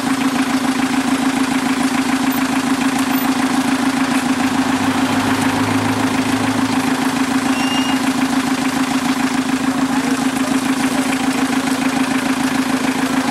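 A vehicle engine idling with a loud, steady drone.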